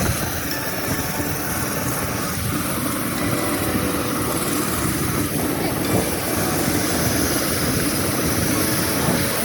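Eurocopter EC130 tour helicopter running, a steady rush of turbine and rotor noise.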